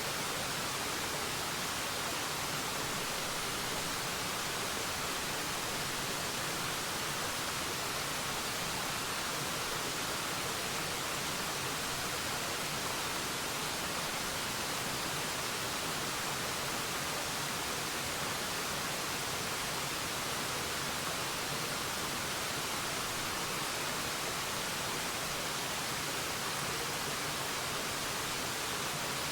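A waterfall pouring steadily: an even, unbroken hiss of falling water, bright and thin with little deep rumble.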